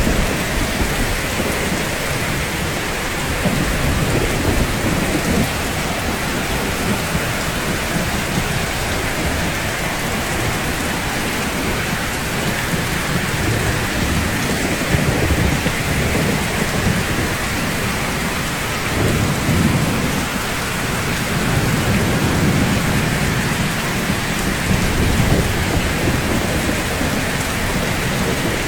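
Steady rain falling on rooftops, with low rumbles of thunder swelling up and dying away several times.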